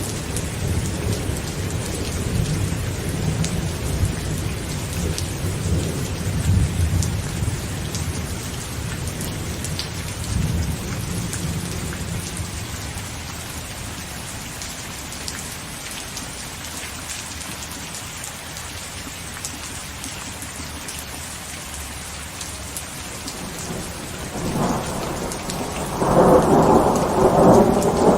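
Heavy rain pattering steadily on a tent, with fine drop clicks. Thunder rumbles low for the first dozen seconds, then fades, and a louder thunder burst breaks in near the end.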